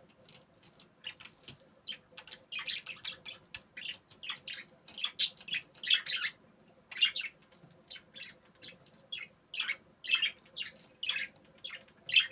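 Budgerigars chattering: a quick, irregular run of short, high squawks and chirps.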